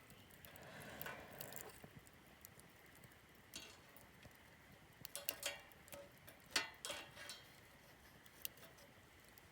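Wood campfire crackling faintly, with scattered sharp pops that cluster about five to seven seconds in.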